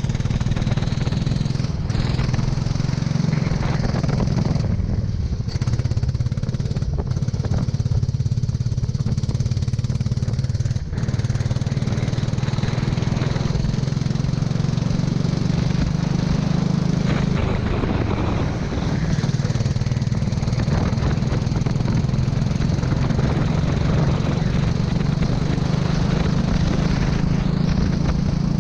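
Go-kart engine running under load through a wet lap, its pitch dipping and climbing again a couple of times as the revs fall and rise, over a steady rushing noise.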